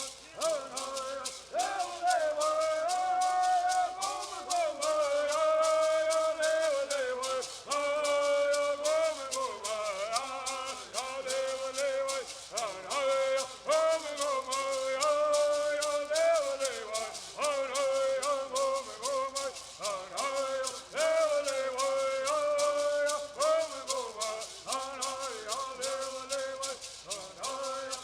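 Southern California Native American bird singing: singers carry a melody that rises and falls, over the steady, fast shaking of gourd rattles.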